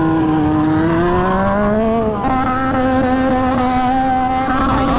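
Motorcycle engine revving: the pitch climbs over the first two seconds, then after a sudden break the engine holds steady at higher revs.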